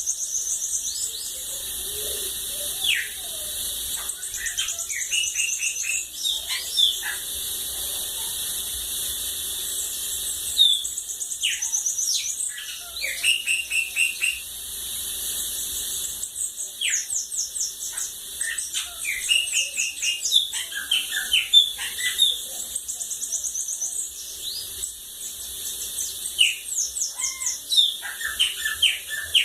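Bananaquit (sibite) singing: repeated bursts of high, rapid twittering trills and short chirps, over a steady high hiss.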